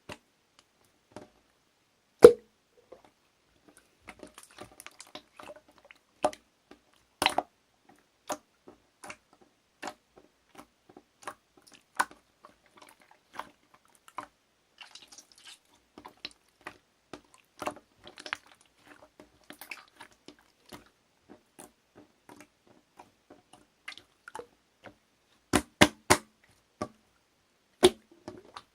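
Slime being squeezed and worked by hand: irregular wet clicks and air-pocket pops with soft squishing between them, and a few louder pops, several near the end.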